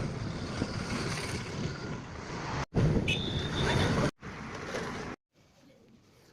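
Car running with rumbling road and wind noise, heard in short clips that cut off abruptly, with the last part much quieter.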